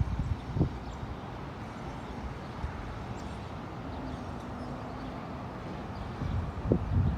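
Wind buffeting the microphone in short low gusts just after the start and again near the end, over a steady outdoor background rumble as a storm front approaches.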